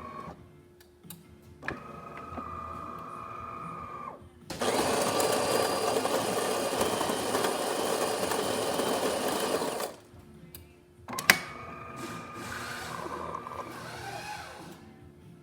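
A DeLonghi Magnifica superautomatic espresso machine starting a brew cycle. A motor whirs for about two seconds, then the built-in burr grinder grinds beans loudly for about five seconds. After a click, a motor whirs again with a wavering pitch as the brew unit moves into place.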